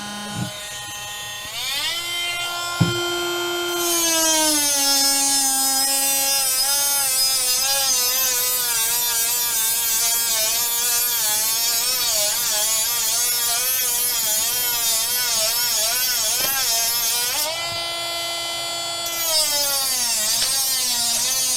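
Dremel rotary tool cutting a wooden popsicle stick. Its whine climbs as the motor spins up, then wavers up and down in pitch as the bit bites into the wood. It settles lower briefly near the end, then wavers again.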